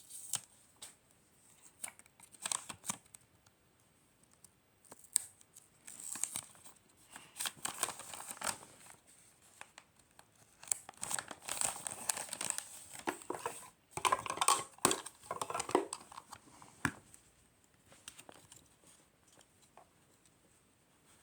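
Paper or plastic packaging being crinkled and torn by hand in irregular bursts, busiest in the middle stretch and dying down near the end.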